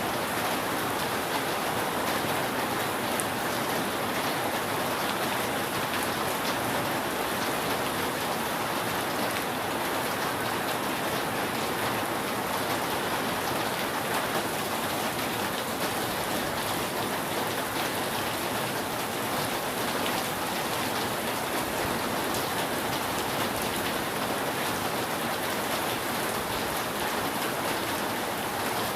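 Steady rain falling on a roof, an even patter that holds at one level throughout.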